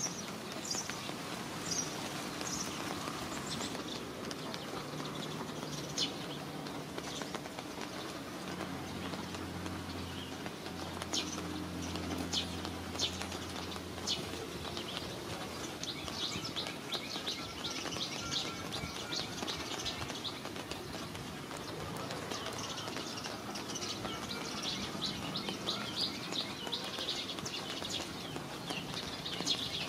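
Steady rain hiss with small birds chirping, their short high chirps coming singly and in quick runs. A faint low hum comes in about eight seconds in and fades out a few seconds later.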